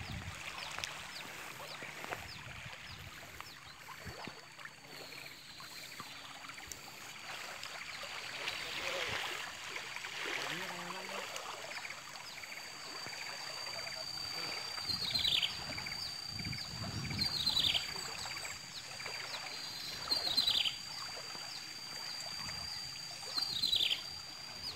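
A bird calls four times, each a short falling note, about every three seconds in the second half. Under it run a steady high thin whine, a soft hiss and a few low thuds.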